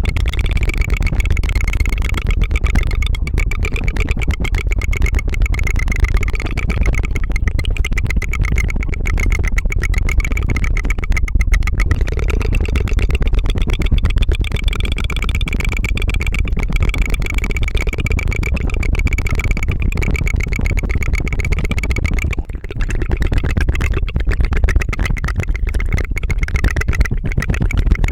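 ASMR tongue fluttering: a fast rolled-tongue trill close to the microphone, running on like a small motor in imitation of a helicopter, with a short break about 22 seconds in.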